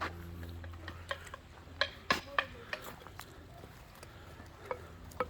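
A series of sharp, irregular clicks and taps, bunched several to a second around the middle, over a low steady hum in the first second or so.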